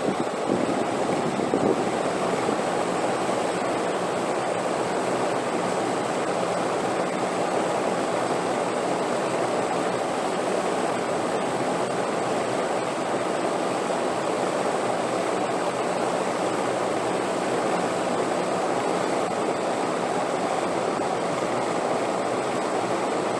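Steady wind noise, an even rushing that swells slightly in the first couple of seconds and then holds level, with a faint thin high tone running underneath.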